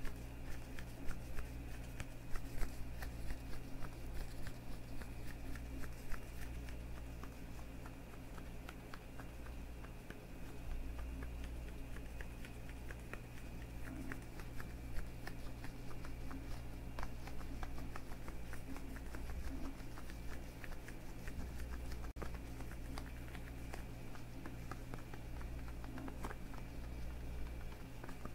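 Leather gloves worn on the hands, rubbed and squeezed close to the microphone: a dense run of small creaks and crackles, louder in the first few seconds, over a steady low hum.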